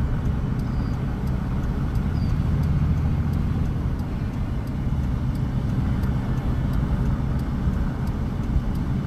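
Farm vehicle's engine running steadily as it drives along the road, a low, even rumble that swells slightly a couple of seconds in.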